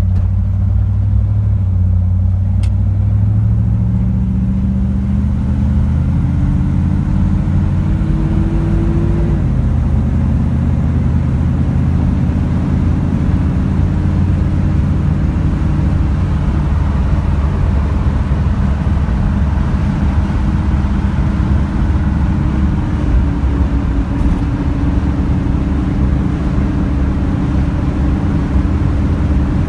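A 1972 Chevrolet Corvette's V8 engine pulls steadily with rising pitch as the car accelerates. About nine seconds in, the pitch drops suddenly at a gear upshift, and the engine then carries on at steady, slowly rising revs with tyre and road noise.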